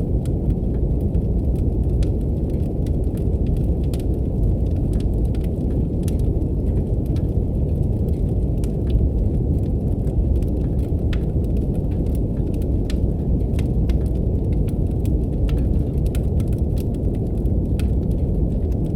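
Steady brown noise, a deep even rumble, layered with the scattered crackles and pops of a wood fire burning in a fireplace.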